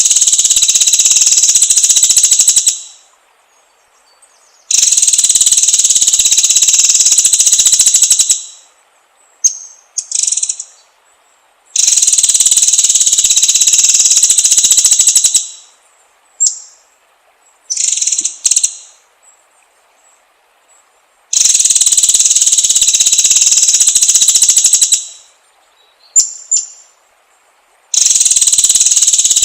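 Shrill, buzzing bird trills in long bursts of about three and a half seconds, repeated roughly every eight seconds. Short single chirps fall in the pauses between bursts.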